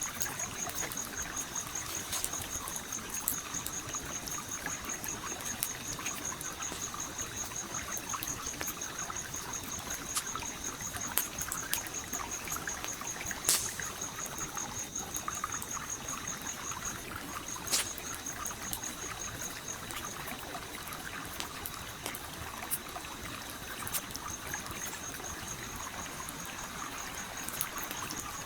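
A stream flowing steadily under a campfire crackling, with scattered pops, two of them sharper about halfway through. A high, rapidly pulsing trill runs through it and drops out for a few seconds past the middle.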